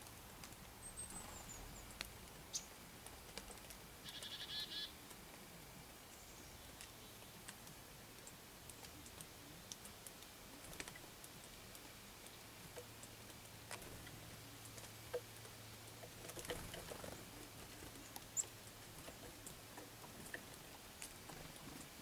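Quiet outdoor background with a few short, high bird chirps and a brief quick run of repeated calls about four seconds in, plus scattered faint clicks.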